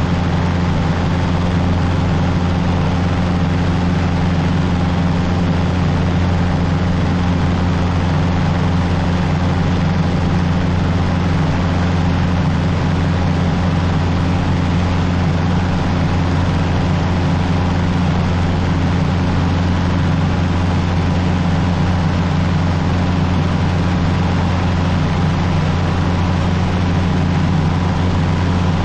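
Cessna 150's four-cylinder Continental O-200 engine and propeller running steadily, a constant low drone with no change in pitch.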